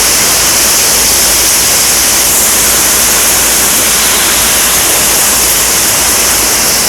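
Heavy rain pouring down in a severe thunderstorm, a loud, steady rush, with strong wind buffeting the microphone as a low rumble underneath.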